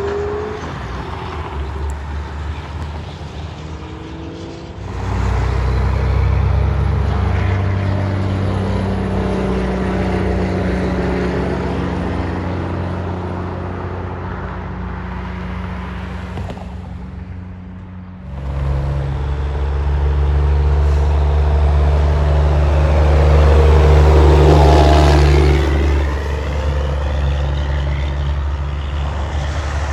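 Trucks driving past on a road, their engines running loud: one comes through about five seconds in, and a second, louder one arrives partway through and is loudest about three-quarters of the way in.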